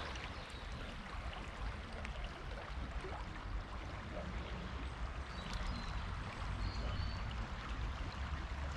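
Swollen, fast-flowing river in flood, rushing steadily with a deep rumble underneath.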